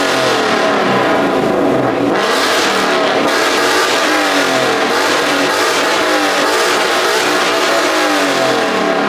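Car engines being revved again and again, their pitch repeatedly climbing and falling, with several engines overlapping.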